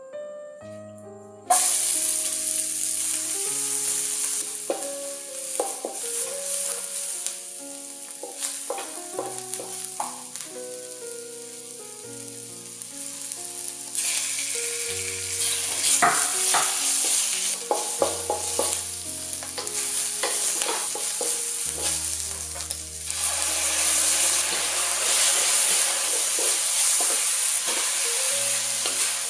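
Oil sizzling in a wok as diced onion and shrimp fry, with a wooden spatula stirring and scraping. The sizzle starts abruptly about a second and a half in and gets louder twice later as more food goes in. Gentle piano music plays underneath.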